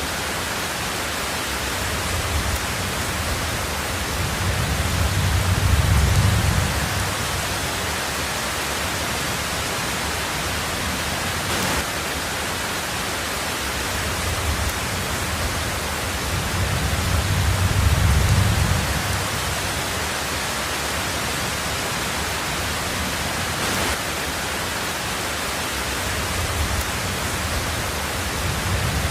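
Heavy rain falling steadily on a tin roof, with low rumbles of thunder that swell and fade about every twelve seconds.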